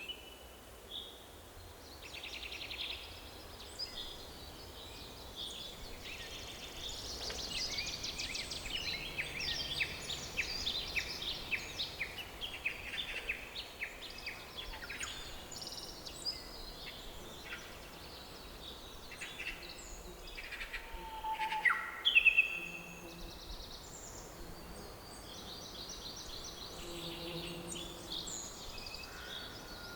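Several wild birds singing and calling in a forest, with chirps, rapid trills and short sweeping whistles. The calls are busiest a quarter to half way through, and the loudest call comes about two-thirds through. A faint steady background hiss lies underneath.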